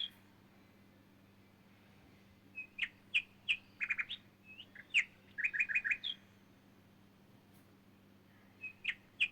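A songbird chirping in short phrases of sharp notes, some in quick runs of four or five. There is a bout of several seconds starting a little way in, then a pause, then more calling near the end.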